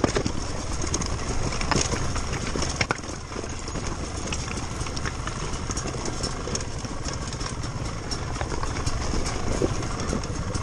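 Trials motorcycle engine running at low revs on a steep, rough climb, with frequent short knocks and rattles over it.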